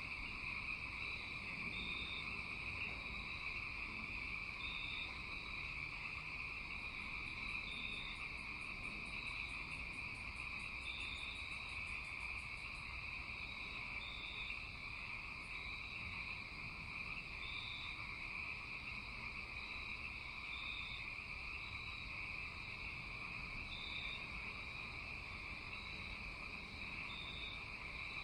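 Night chorus of frogs and insects: a steady, unbroken trilling, with short higher calls repeating every second or two. A rapid, very high pulsed trill joins in for several seconds in the middle.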